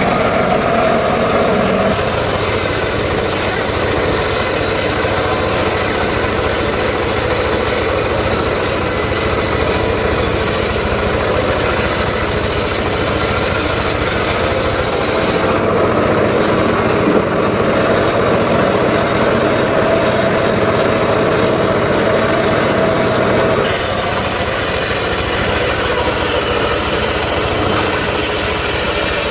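Engine-driven homemade circular saw running steadily. Its higher-pitched noise changes abruptly about two seconds in, again around the middle, and again near the end.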